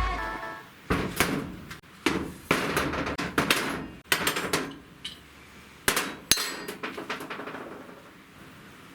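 Sharp knocks and clanks of tools and metal bike parts being worked on, about ten irregular strikes, some in quick pairs, over the first seven seconds, then dying away.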